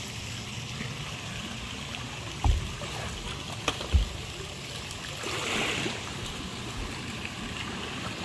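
Valley stream flowing steadily, with two short low thumps about two and a half and four seconds in.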